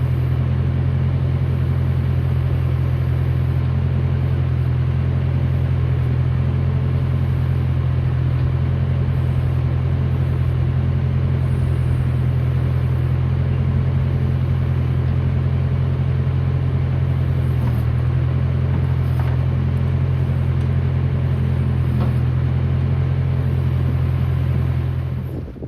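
John Deere 450 loader's engine running steadily and loudly, supplying hydraulic pressure while the Case backhoe's functions are tested. The sound cuts off sharply just before the end.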